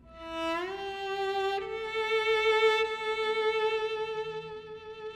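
Solo violin playing slow, long held notes, sliding up into its first note and changing to a higher one about a second and a half in, with vibrato on the held tones.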